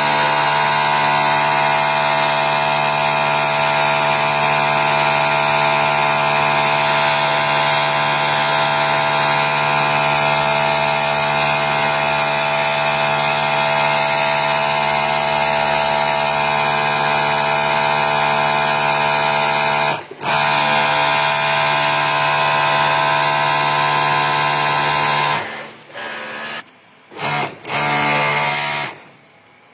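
Overlock sewing machine running at speed with a steady motor hum. It stops for a moment about twenty seconds in, runs on, then goes in short stop-start bursts near the end.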